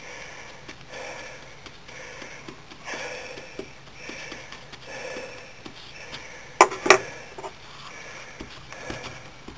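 A person breathing hard and sniffing through the nose, a soft breath about once a second. About two-thirds of the way through come two loud, sharp, crackling sounds close together.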